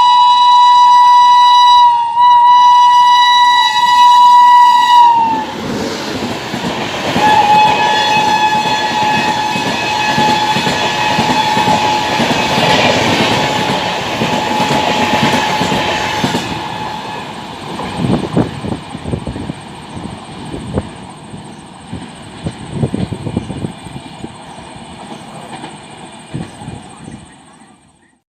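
Shatabdi Express passing at speed with its locomotive horn blaring. The horn's pitch drops about five seconds in as the train goes by, and a loud rush of the passing coaches follows. Then the rhythmic clatter of wheels over rail joints fades as the train recedes.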